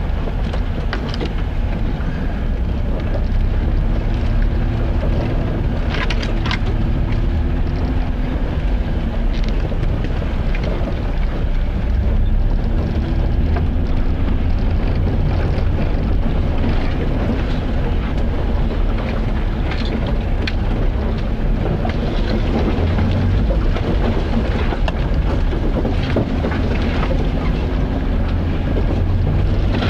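A vehicle on the move: a steady low rumble of engine and road noise, with a faint hum that wavers in pitch and a few light knocks and clicks.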